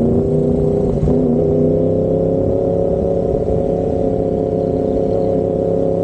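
Yamaha MT-10's crossplane-firing inline-four running through an SC Project carbon titanium exhaust, pulling under way. The engine note dips briefly about a second in, then climbs slowly and steadily.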